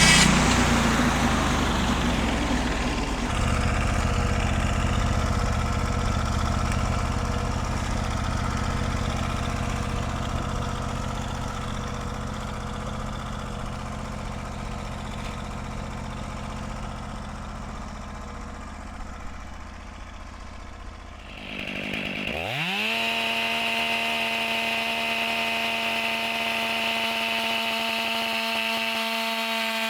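Small gas engine of a sawmill running steadily and gradually quieter, then about 22 s in revving up sharply to a steady high speed.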